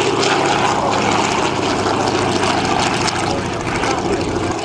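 Airplane engine running loud and steady, a dense noisy drone.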